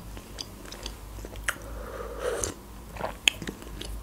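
A person chewing a bite of Kinder Délice chocolate sponge cake with the mouth closed: soft, wet mouth sounds with a few sharp clicks.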